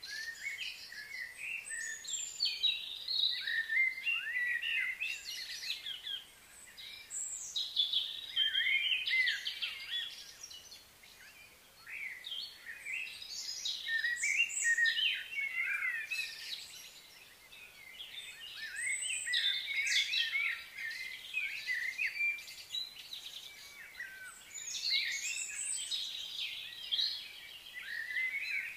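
Several wild birds singing and chirping, quick high warbling phrases that come in spells of a few seconds with short lulls between.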